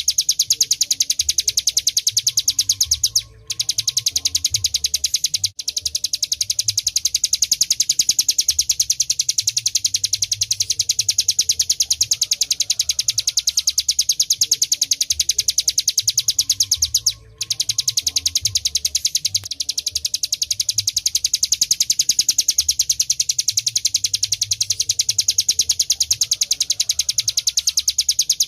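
Ciblek gunung (hill prinia) singing a continuous, very rapid high-pitched trill, the long unbroken 'ngebren' song, with brief breaks about three seconds in, near six seconds and about seventeen seconds in.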